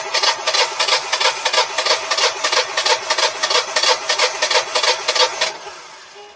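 Generac Guardian standby generator engine cranking on its starter, a fast even churning that does not catch. The starter stops after about five and a half seconds and the sound winds down. The engine fails to start, which the owner thinks may be air in the lines.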